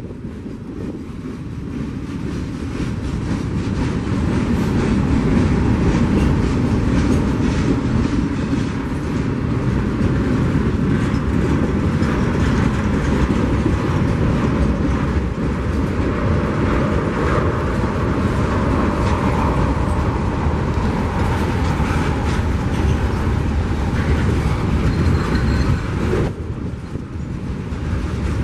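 A train rolling past on the tracks: a steady rumble that builds over the first few seconds and then holds, with rapid clicking of wheels over the rail joints, and a brief dip near the end.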